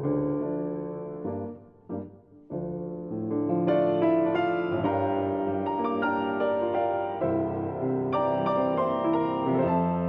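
Background piano music, slow and gentle, with held chords; it nearly drops out for a moment about two seconds in.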